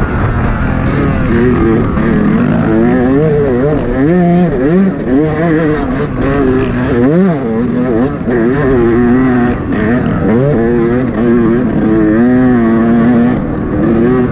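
Yamaha YZ125 two-stroke motocross engine revving up and down over and over as the bike is ridden round the track, its pitch rising and falling every second or so, with a quick sharp blip about seven seconds in.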